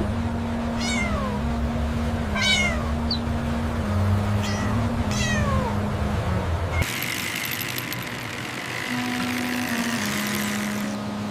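A cat meowing: four falling mews in the first half, over low droning notes that step in pitch. A steady hissing noise takes over about seven seconds in and stops near the end.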